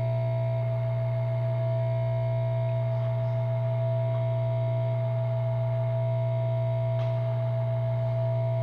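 Steady electrical hum with a constant higher whine tone above it, unchanging throughout, and a couple of faint small clicks.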